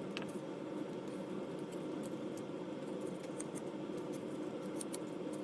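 Faint, scattered clicks and ticks of plastic model-kit parts being handled and fitted together, over a steady low hum.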